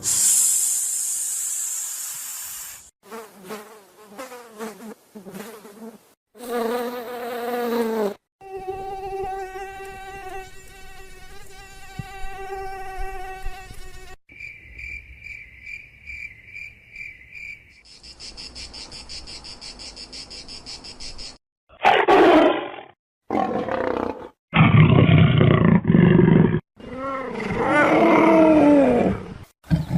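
A run of separate animal sound clips played one after another: short calls, then insect-like buzzing and an evenly pulsed chirping in the middle, and loud roars in the last third.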